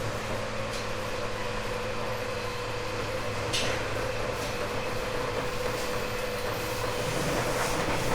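Interior running sound of a 1978 JR East 189-series electric train's motor car: the MT54 traction motors and gears give a steady whine over the rolling noise, holding one pitch, at a constant speed. A few short sharp ticks sound through it.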